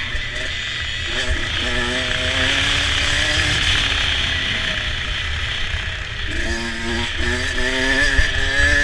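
Motocross dirt bike engine under race throttle, its pitch rising and falling as the rider opens and closes the throttle, climbing sharply again about six seconds in.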